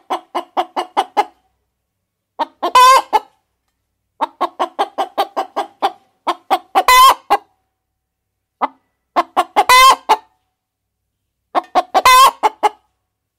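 A hen cackling: runs of quick short clucks, each building into a loud drawn-out squawk, four squawks in all about every three seconds.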